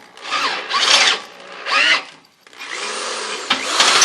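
Cordless drill boring a hole through steel, run in short bursts of the trigger, then held for a longer steady run in the second half.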